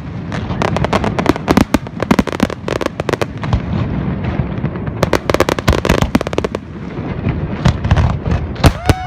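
Aerial fireworks going off in quick succession: dense, overlapping bangs and crackling bursts over a continuous low rumble.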